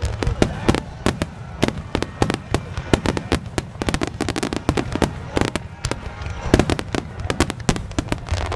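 A dense barrage of aerial firework shells bursting, with rapid, overlapping bangs and crackles several times a second over a low rumble. It is picked up by a Ricoh GR compact camera's built-in microphone, which handles the sound poorly.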